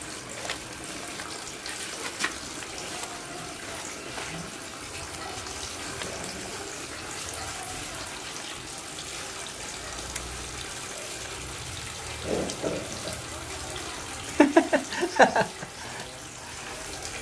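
Water running steadily throughout, with a few faint knocks. Near the end a voice is briefly heard, twice.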